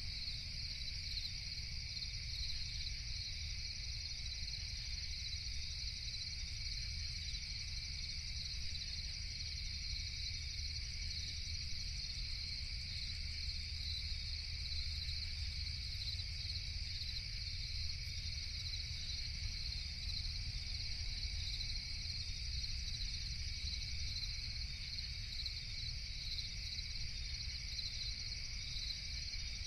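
Night chorus of crickets chirping steadily and without a break, in two pitches, a higher one and a lower one, over a steady low rumble.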